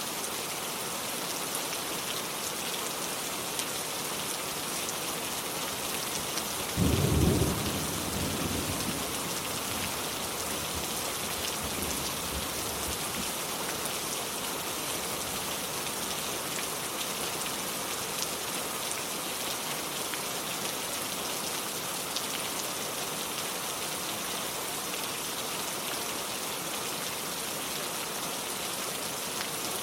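Steady rain falling, with a sudden clap of thunder about seven seconds in that rumbles away over the next few seconds.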